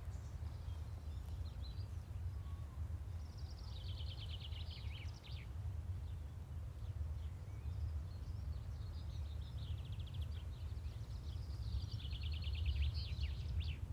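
Outdoor ambience: a steady low rumble, with a songbird's rapid trills of repeated high notes, once about three seconds in and again over the last few seconds.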